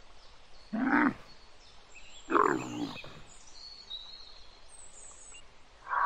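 Dromedary camel calling: two short loud calls about a second and a half apart, the second longer and falling in pitch.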